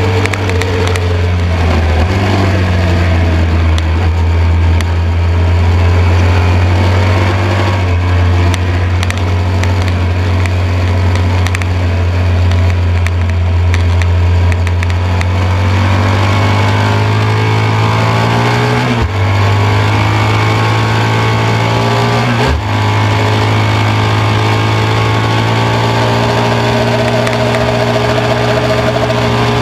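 1972 BMW R75/5's air-cooled 750 cc flat-twin boxer engine running hard under racing load, heard from an onboard camera. The pitch climbs, then drops twice in quick succession, about three and a half seconds apart, as it changes gear, then holds steady.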